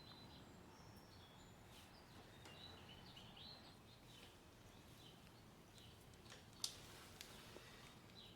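Near silence with faint bird chirps in the background and a single light click about six and a half seconds in.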